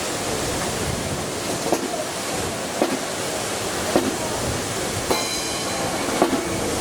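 Strong wind buffeting the microphone in a steady rushing roar, with short sharp thumps about once a second.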